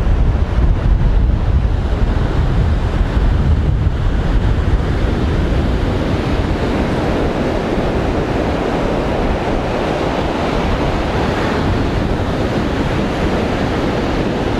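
Heavy surf breaking on the shore under strong onshore wind, with the wind buffeting the microphone in a low rumble. The rumble eases after about five seconds and the rush of the surf takes over.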